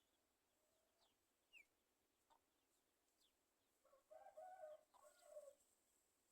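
Faint bird calls: a few short, high chirps, then about four seconds in a louder, lower clucking call in two parts lasting about a second and a half.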